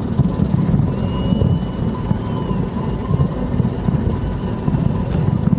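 Continuous low rumble of a distant fireworks display, its bangs blurred together by distance, with a few faint crackles.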